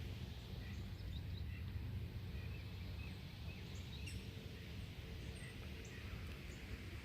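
Birds chirping faintly now and then, over a steady low rumble.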